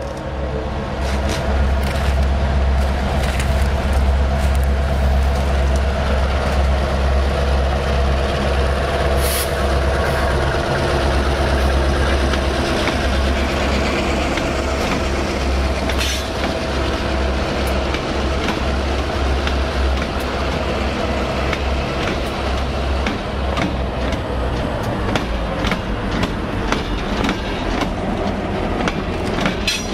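Freight train passing led by Norfolk Southern EMD GP38-2 diesel locomotives: a steady, loud diesel drone, with steel wheels rumbling and clicking on the rails. The engine drone fades after about 24 seconds as the rolling cars take over.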